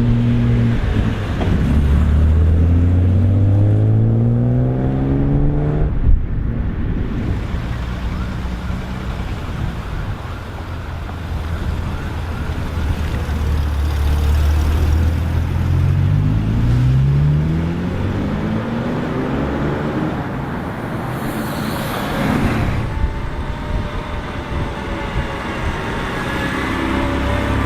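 Car engines accelerating away one after another, their pitch rising steadily as they rev, with a sharp crack about six seconds in and a brief rush of noise a little past twenty seconds.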